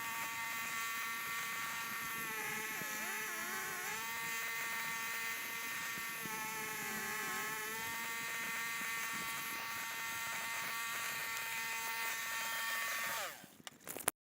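A small motor running steadily with a buzzing hum, its pitch sagging briefly twice as if under load. It fades and cuts off near the end.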